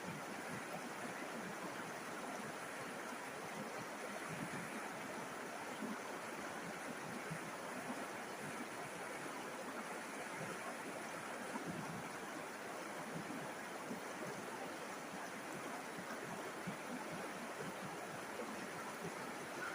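A river's flowing water making a steady, even rush with small flickers in level throughout.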